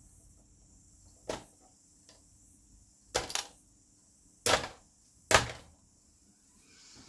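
Sharp knocks and snaps from a projector being taken apart by hand: one about a second in, a quick double a couple of seconds later, then two more close together, the last the loudest.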